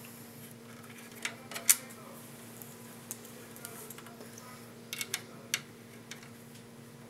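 Sharp metallic clicks and knocks as a 3.5-inch hard drive is handled and pushed into a computer case's metal drive bay, in two short clusters: three about a second and a half in, the loudest of them, and three more about five seconds in.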